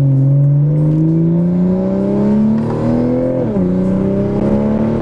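Toyota Supra with a freshly fitted titanium straight-pipe exhaust and muffler, accelerating: the engine note climbs steadily, drops at an upshift about three and a half seconds in, then climbs again. Loud and deep.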